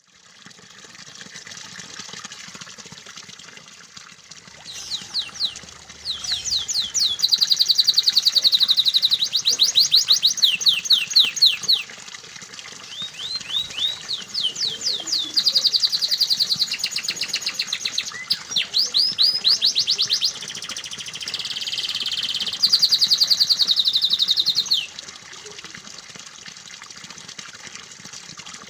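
Domestic canary singing in long, rapid trills of repeated high chirps, several phrases with brief breaks between them, starting about five seconds in and ending about twenty-five seconds in. A steady rush of running water plays under the song.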